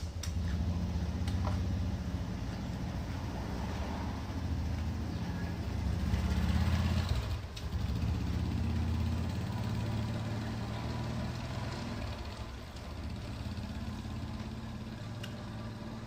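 An engine running steadily with a low, even hum, swelling a little about six seconds in.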